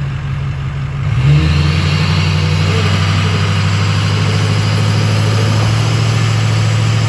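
Truck engine running close by, stepping up to a higher, louder speed about a second in and holding there steadily.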